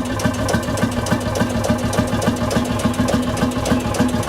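Lanz Bulldog D1616's single-cylinder two-stroke diesel engine running steadily, a regular knocking beat at about seven strokes a second.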